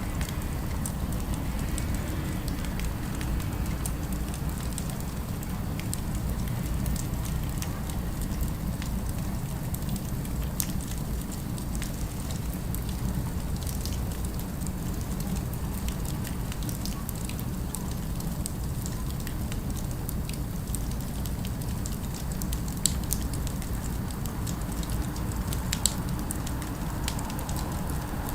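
Fireplace fire crackling: a steady low rumble of flames with scattered sharp pops and snaps, a few louder pops near the end.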